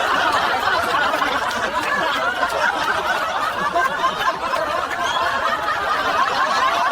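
A crowd of many people laughing together, a dense unbroken wash of laughter that cuts off suddenly at the end.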